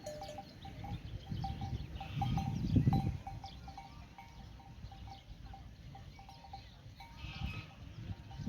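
Small bells on grazing livestock clinking irregularly, with a low rumble about two seconds in.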